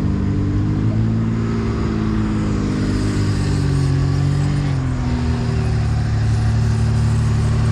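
Four-wheel-drive truck's engine running under load, its pitch rising and wavering as the throttle is worked, then dropping about five seconds in and settling to a steadier note.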